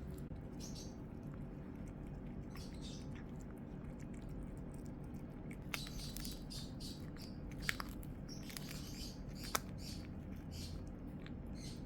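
Small birds chirping in short, scattered calls over a steady low hum, with a few sharp clicks in the second half.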